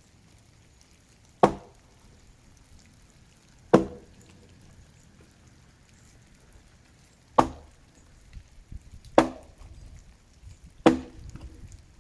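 Axe chopping into a dead tree: five separate strikes, one to three seconds apart, each with a short ringing decay.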